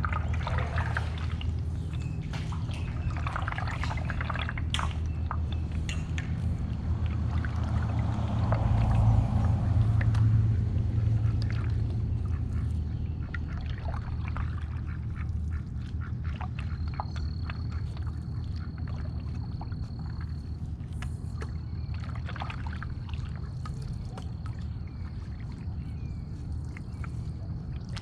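Ducks quacking on the water, with splashing from paddle strokes over a steady low hum. A thin, high steady tone sets in about halfway through.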